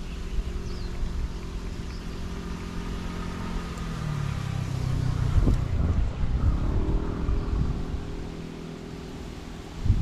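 An engine running steadily; its pitch drops about four seconds in and rises again a couple of seconds later. Wind buffets the microphone with a low rumble.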